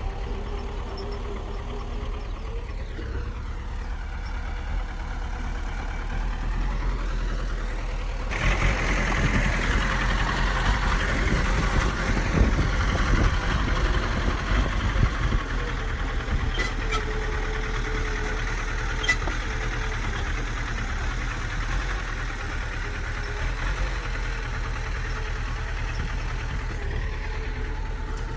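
Heavy construction machine's engine running steadily, then working harder from about eight seconds in, louder for several seconds before easing back.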